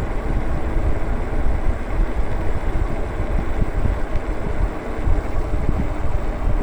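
Wind buffeting the microphone of a rider on a moving e-bike: a steady, fluttering low rumble mixed with road noise.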